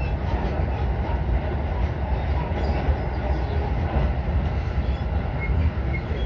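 Running noise inside a moving commuter train's passenger car: a steady low rumble of wheels on the rails.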